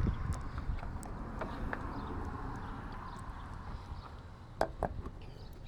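Irregular low rumbling and soft knocks, with two sharp clicks about four and a half seconds in.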